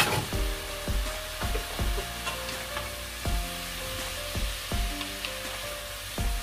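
Enoki mushrooms and tomato sizzling in a frying pan as they are stirred with wooden spatulas, with a sharp tap at the start and a few light taps. Background music with a steady bass beat plays throughout.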